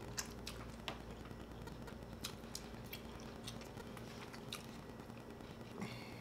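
Close-miked eating: chewing, with scattered small clicks from a plastic fork on a plate, over a faint steady hum.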